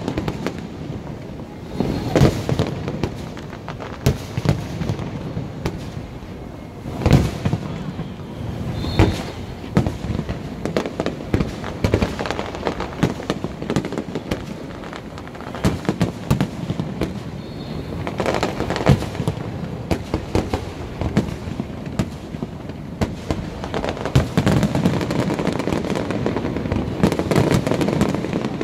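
Aerial fireworks display: shells bursting in a continuous series of bangs, with especially loud single bursts every few seconds. Near the end the bursts come thicker and run together into a dense, continuous stretch.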